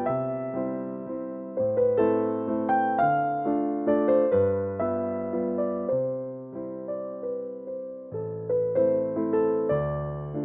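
Slow, gentle background piano music: soft keyboard chords and a simple melody, each note struck and left to fade.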